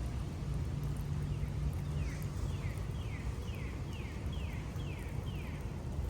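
A bird singing a run of about eight short, falling whistled notes, about two a second, starting about two seconds in, over a steady low hum.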